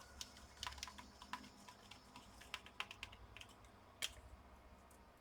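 Scattered small clicks and taps of plastic and metal laptop parts being handled as a cooling fan is fitted back into the open chassis, irregular and faint, with one sharper click about four seconds in.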